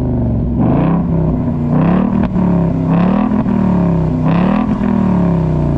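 Ford Mustang V8 on its stock exhaust, mufflers still fitted, revved in four quick blips, the pitch climbing and falling each time, then easing back toward idle near the end.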